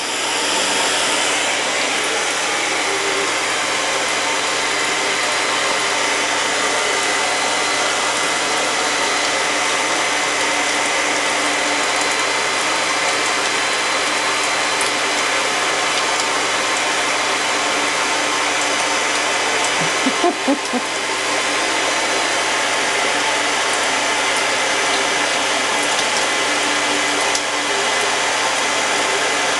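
Blow dryer running steadily, its fan noise carrying a faint motor whine, with a brief dip about twenty seconds in.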